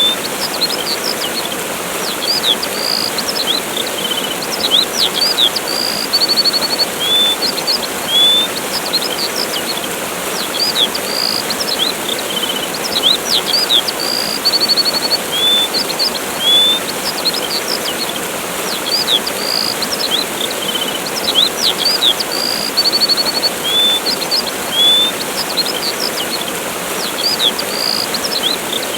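Steady rush of a waterfall, with small birds chirping and trilling over it in short high calls several times a second. The same sequence of calls comes back about every thirteen seconds.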